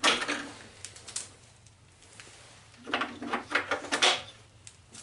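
Two bursts of knocking and rattling, one at the start and a longer one about three seconds in.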